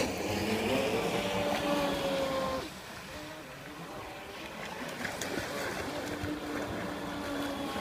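RC model boat's motor whining as it runs on the water, its pitch gliding slightly with throttle. About two and a half seconds in it drops off sharply as the throttle is cut back, then runs on more quietly with a steadier tone.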